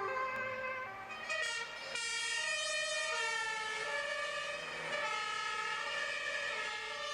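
A German fire engine's two-tone siren sounding while the truck drives, the pitch stepping back and forth between a high and a low note. A couple of brief clicks and a short dip in loudness come between one and two seconds in.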